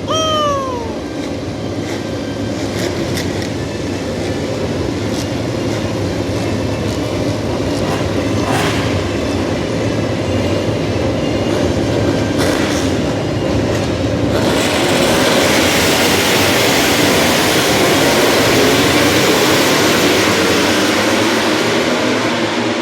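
Steady rumble and hiss of a moving vehicle, with a few sharp clicks; the hiss grows louder about two-thirds of the way through.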